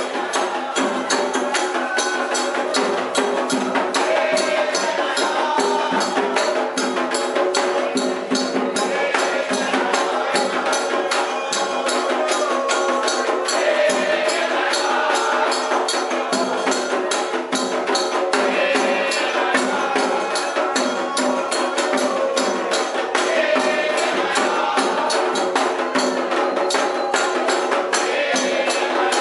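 Candomblé ceremonial music: fast, evenly spaced percussion strokes with singing voices over them, running without a break.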